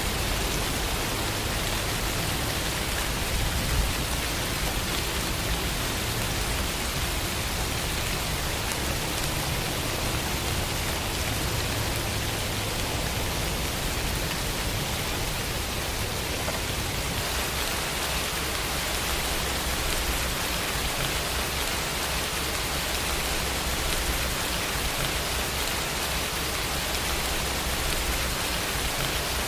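Steady rainfall: an even, dense hiss with no single drops or thunder standing out, its tone shifting slightly a little over halfway through.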